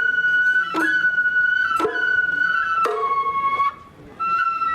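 Japanese festival hayashi music: a shinobue bamboo flute playing long held notes, with sharp percussion strikes about once a second. The music breaks off briefly near the end, then starts again.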